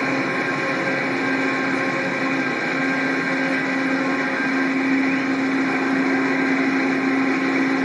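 Steady mechanical drone from a stopped Amtrak passenger train at the platform, with a few steady hum tones running through it.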